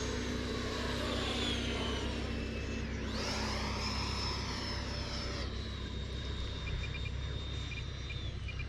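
Radio-controlled model jets flying, their engines giving a steady high whine. About three seconds in, one passes by, its pitch swinging up and back down.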